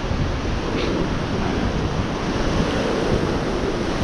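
Ocean surf with wind buffeting the microphone: a steady rushing noise, heaviest in the low rumble.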